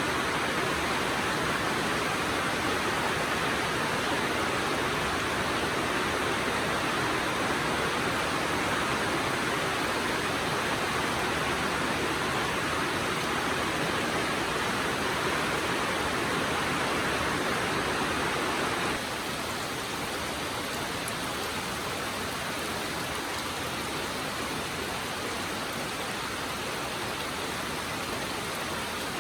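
Steady heavy rainfall, a dense even hiss with no separate drops standing out. About two-thirds of the way through it drops suddenly to a somewhat quieter, duller hiss.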